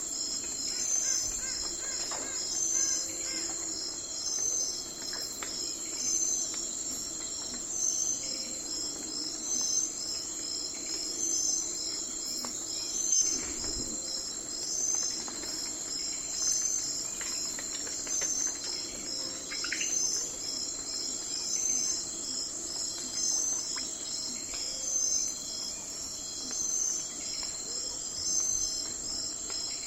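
Night chorus of crickets, a steady high trill pulsing about once a second, with a brief chirping call about twenty seconds in.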